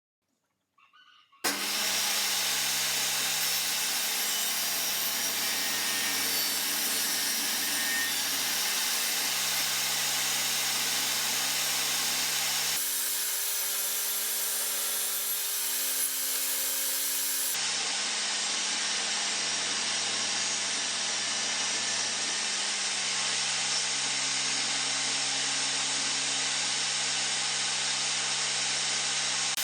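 An electric power tool working on wood, running steadily at a constant level. It starts suddenly about a second and a half in, and its sound shifts briefly about halfway through.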